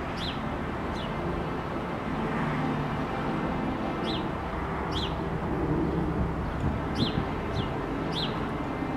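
A bird chirping: about seven short, high chirps, each falling in pitch, scattered irregularly. Under them runs a steady low rumble of background noise.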